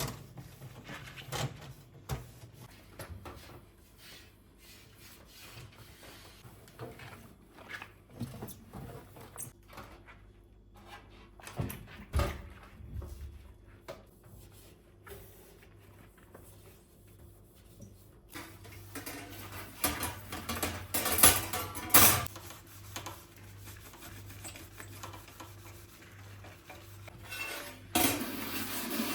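Dishes and cutlery being handled: irregular clinks, knocks and clatters, with a louder run of clattering about two-thirds of the way through and a steady rushing noise starting just before the end.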